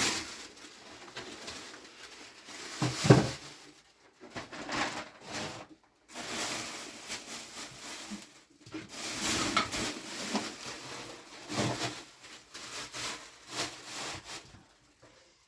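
Irregular rustling and handling noises, coming and going, with one louder knock about three seconds in.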